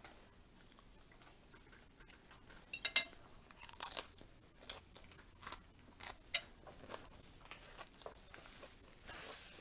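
Crisp lettuce leaf bitten and chewed close to the microphone: quiet for the first couple of seconds, then crunching starts about three seconds in, loudest in the first bites, and goes on in smaller crunches as she chews.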